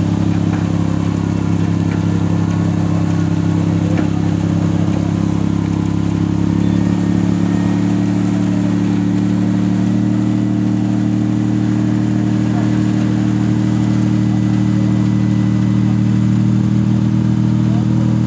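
Modified off-road 4x4's engine running at low, steady revs while crawling across a steep slope, its note stepping up slightly about six seconds in.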